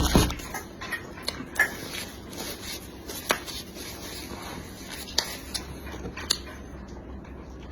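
A person eating and handling food: a loud rustling burst at the start, then scattered sharp clicks and smacks, a few seconds apart.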